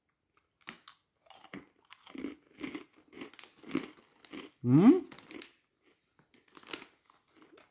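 A person chewing crunchy sakura karintō, Japanese fried dough-stick snacks, in short irregular crunches about two to three a second. About five seconds in there is a short rising hum from the eater.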